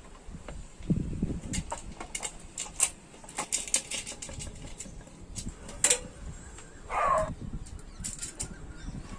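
Irregular sharp clicks and light knocks, with a short squeak about seven seconds in.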